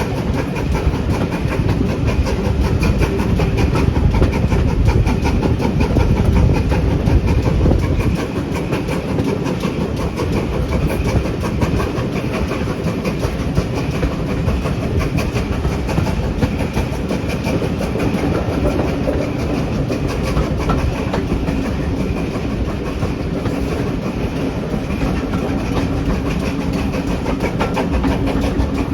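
A train running on the rails, its wheels clattering over the track over a continuous rumble. The heavy low rumble drops away suddenly about eight seconds in, and the running goes on more evenly after that.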